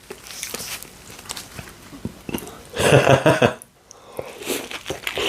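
Close-miked biting and chewing of a Subway Italian BMT sub sandwich: wet mouth sounds and soft crunching of bread, with a short voiced hum about three seconds in.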